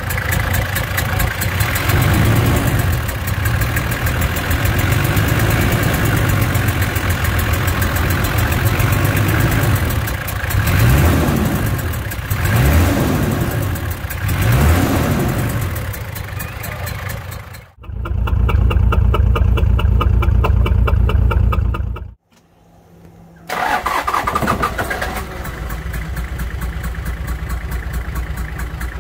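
Toyota LandCruiser engine idling with a steady, rapid ticking or popping from the engine bay, revved up and down a few times about ten seconds in. A mechanic suspects a valve fault, possibly something worse inside the head.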